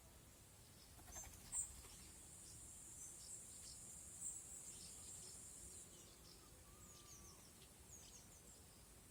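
Faint garden sounds: small birds giving short, high chirps here and there, over a steady high insect buzz from about a second and a half in to about six seconds in.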